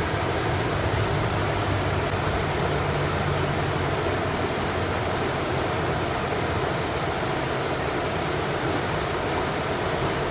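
Creek water rushing steadily over rocks at a small waterfall. A low hum under it fades out about halfway through.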